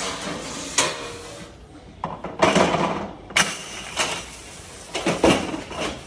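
Dishware and metal racks knocking and clattering in a restaurant dish room: irregular bursts of noise with a few sharp knocks, the loudest about three seconds in and again past five seconds.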